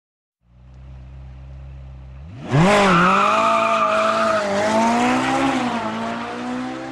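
Car engine idling low, then revving up sharply about two and a half seconds in and holding a loud, high, wavering engine note.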